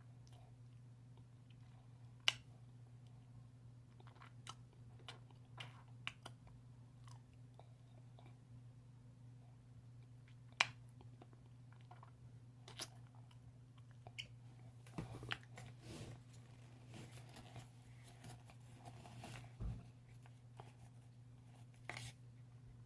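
Close-up chewing of dry chunks mixed with powder: soft mouth sounds broken by scattered sharp crunches, the loudest about two and ten seconds in, over a steady low hum.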